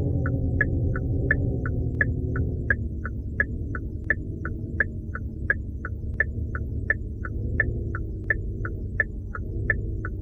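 Low sustained synth-style drone, its chord shifting slightly a couple of times, over an even ticking of about three ticks a second that alternates between a higher and a lower tick like a clock's tick-tock.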